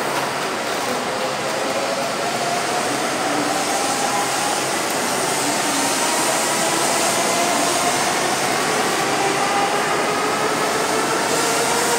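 N700S 'Kamome' shinkansen pulling out of the platform. Its motors give a slow rising whine over a steady rush of noise as it gathers speed.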